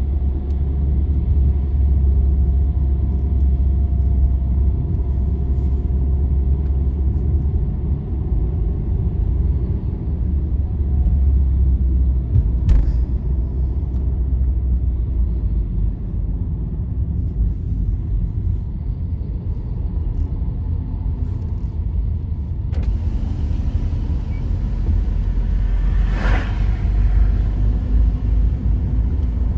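Steady low rumble of a vehicle travelling on a highway. There is a short knock about 13 seconds in, and a higher hiss comes in at about 23 seconds, swelling briefly near 26 seconds.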